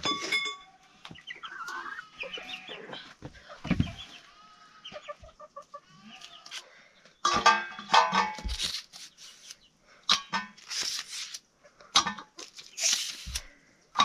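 Birds calling: a run of short pitched calls, then several short, sharp, noisy squawks in the second half.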